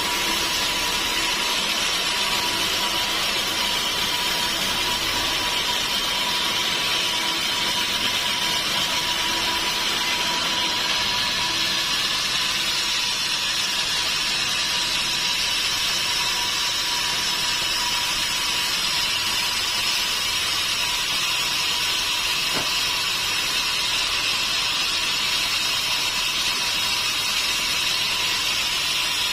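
Sawmill machinery running steadily, a constant high, noisy whine with one steady tone in it and no breaks in level.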